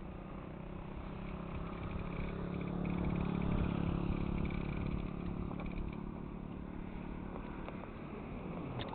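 A motor vehicle's engine running, growing louder about three seconds in and then easing off, as if passing, with faint high chirping over it.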